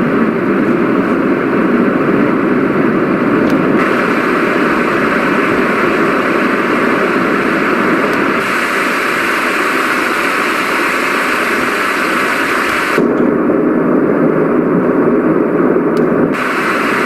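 Roffie white noise machine playing steady noise sounds through its speaker, switching abruptly to a different noise four times as the selection button steps through the sounds, about every three to five seconds.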